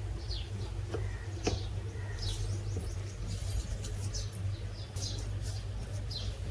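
Steady low electric motor hum, most likely the table fan running, with short high chirps or squeaks that fall in pitch and come at irregular intervals of about a second.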